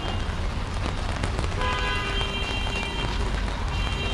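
Rain falling on a city street, a steady hiss over a deep rumble of traffic. Steady high-pitched tones sound over it from about a second and a half in, and again near the end.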